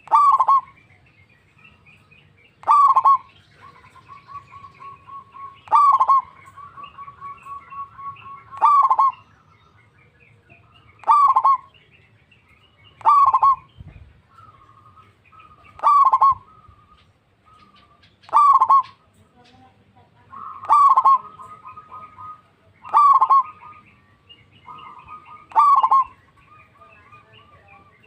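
Zebra dove (perkutut) calling: a loud, short cooing call repeated about every two and a half seconds, with softer rapid stuttering notes between some of the calls.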